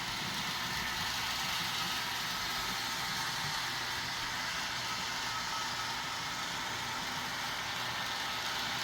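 HO scale model trains running on the layout: a steady whir of locomotive motors and wheels on the track.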